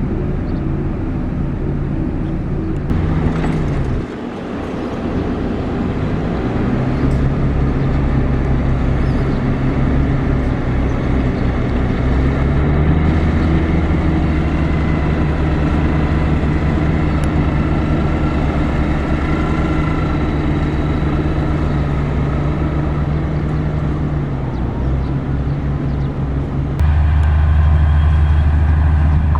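Diesel engine of heavy road-construction machinery running under load, its pitch falling about four seconds in, rising again around twelve seconds and easing off near twenty-four. A louder, deeper engine takes over for the last couple of seconds.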